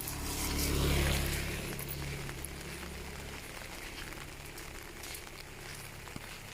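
A motor vehicle's engine passing close by, loudest about a second in and then fading away, over the steady hiss and patter of rain.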